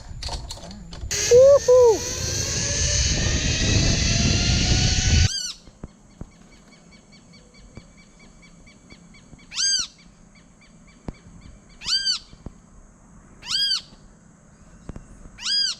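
Zipline trolley running along its steel cable: a rushing, rising whine that grows louder, with a shout of "woohoo!", cutting off suddenly about five seconds in. Then rainforest background of steady insect buzzing, with a bird giving a clear arched call four times, about two seconds apart.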